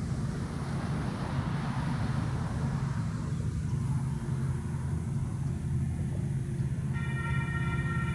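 Low steady rumble of an approaching diesel-hauled train. About seven seconds in, a train horn starts sounding as one held chord.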